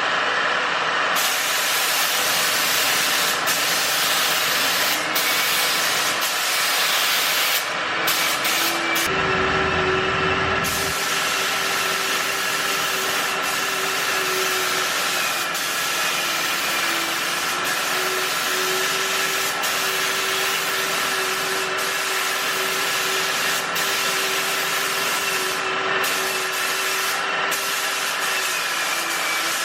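Paint spray gun hissing steadily with compressed air while spraying clear coat, with a steady whistling tone in the airflow.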